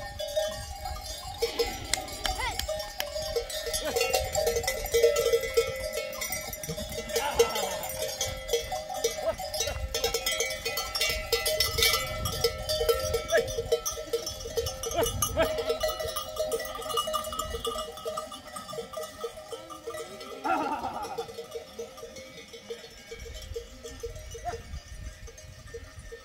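Livestock bells on a flock clanking and jingling continuously as the animals move, with a short bleat about a third of the way in and another near the three-quarter mark.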